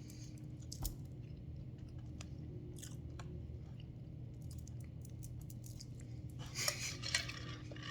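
Chewing and eating a blueberry-filled doughnut, with soft mouth clicks, over a steady low hum. A louder brief rustle or crunch comes about six and a half seconds in.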